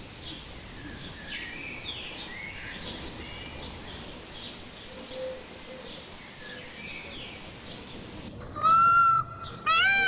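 Many small birds chirping over a steady outdoor background hiss. About eight seconds in, this cuts off suddenly and gives way to a much louder series of repeated calls, each note rising and falling in pitch.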